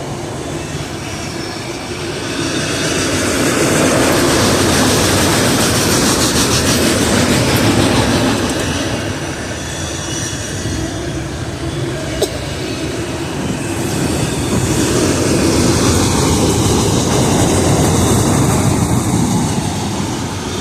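Freight train cars rolling past at close range: a continuous rumble of steel wheels on rail with clattering and some wheel squeal, swelling louder a few seconds in and again later, with one short sharp click about midway.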